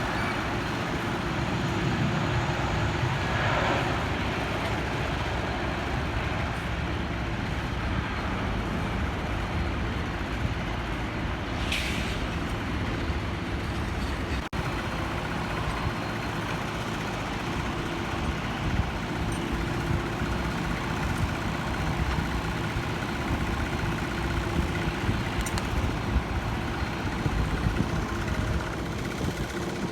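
Steady engine rumble with a faint steady whine, and a short hiss about twelve seconds in.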